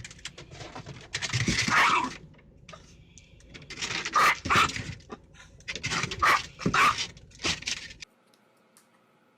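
A dog vocalizing in several short loud calls spread over several seconds; the sound stops abruptly near the end.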